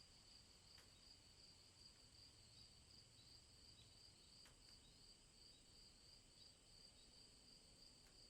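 Near silence with a faint, steady, finely pulsing high insect trill, typical of crickets in grass, and two faint ticks.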